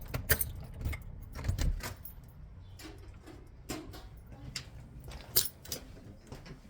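A bunch of keys jangling and clinking, with scattered sharp clicks, as a door is being unlocked.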